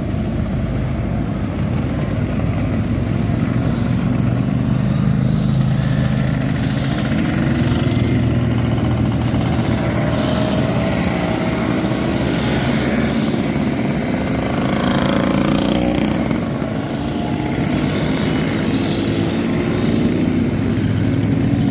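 Engines of several classic scooters and motorcycles running together, rising and falling in pitch as riders rev and move off.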